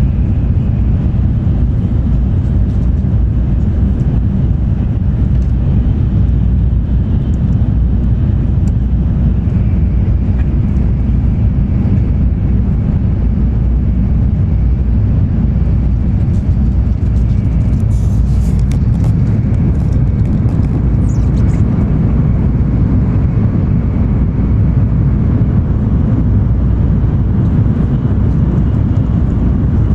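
Cabin noise of a JR West N700 series Shinkansen running: a loud, steady low rumble, with a few faint high clicks about two-thirds through.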